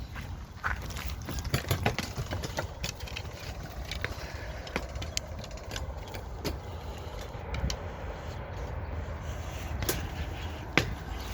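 Low steady vehicle rumble with frequent short clicks and knocks scattered through it.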